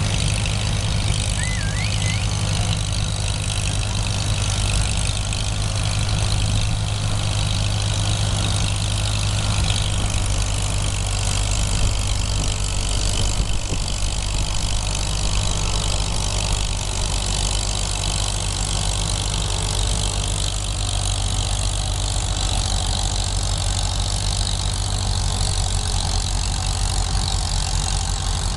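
Tractor-pull tractor's engine running steadily with a deep drone, its pitch barely changing.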